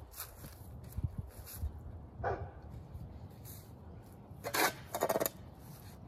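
A dog barking a few times: once about two seconds in, then twice close together near the end.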